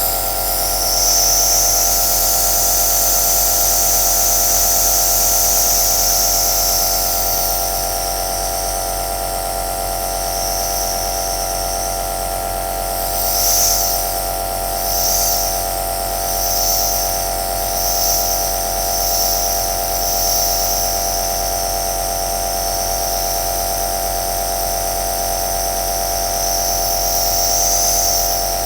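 Home compressor nebulizer (aerosol machine) running steadily: an electric motor hum with a hiss of air and mist over it. About halfway through, the hiss swells and falls in a quick run of pulses, a little under one a second.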